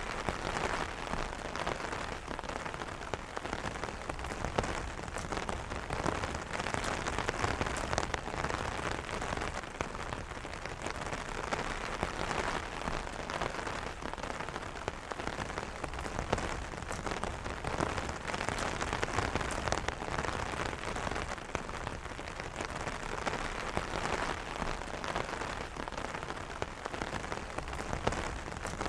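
Steady rain pattering on an umbrella's fabric canopy: a dense, even patter of many small drop impacts.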